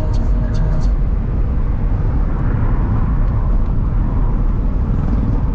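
Taxi driving along a road, heard from inside the cabin: a steady, loud rumble of road and wind noise.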